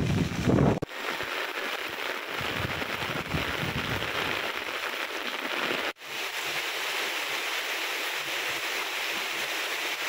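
Heavy rain falling steadily on a road and the ground around it: an even hiss. In the first moment there is a brief rumble of wind on the microphone that cuts off suddenly, and the hiss breaks off for an instant about six seconds in.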